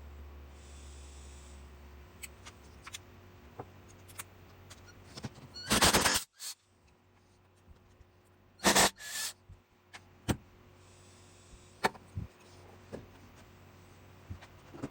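Workshop work noises: scattered clicks and knocks of tools and parts being handled, with two loud, harsh bursts of about half a second each, about six seconds in and again about three seconds later.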